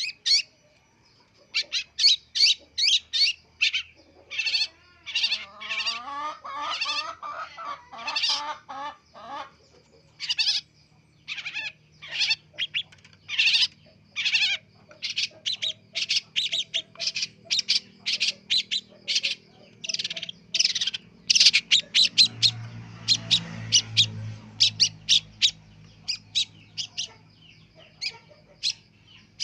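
Long-tailed shrike (cendet) still learning its song: a long series of short, harsh calls, about two a second, broken a few seconds in by a stretch of lower, wavering warbling.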